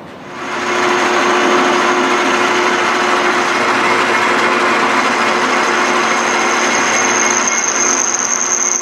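South Bend lathe starting up and taking a finishing boring cut in a pulley bore: a steady whir of the motor and drive, with a thin high whine from the cut that grows stronger near the end.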